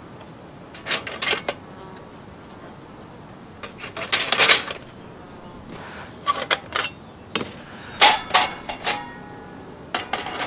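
Metal camp cooking gear being handled: several short clusters of clinks and knocks as metal pieces strike and are set against one another.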